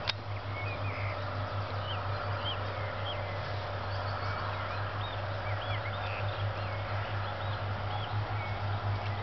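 Small birds chirping, many short calls scattered throughout, over a steady low rumble. A single sharp click sounds just after the start.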